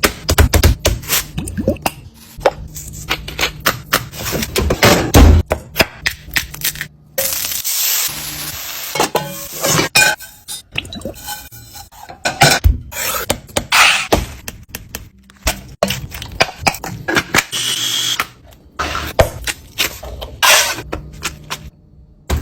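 Food-preparation sounds in a kitchen: a long run of sharp knocks, clatters and clinks from utensils, dishes and pans, coming in quick irregular hits with short noisy stretches between them.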